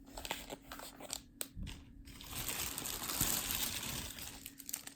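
Plastic packaging crinkling and crackling as it is handled: a run of sharp crackles, then a steadier rustle that fades near the end.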